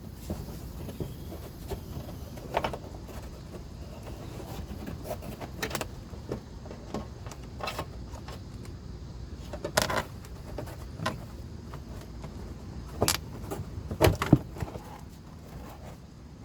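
Scattered metallic clicks and knocks from hand tools and parts being handled during work on a car's drive belt, over a steady low rumble, with two sharp knocks close together near the end.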